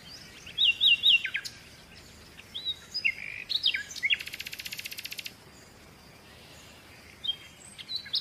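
Small birds chirping: a few quick whistled notes, then a rapid buzzy trill lasting about a second, a quieter gap, and a couple more chirps near the end.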